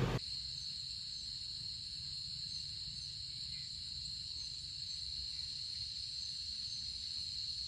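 Crickets chirring in one steady, unbroken high trill, over a faint low rumble.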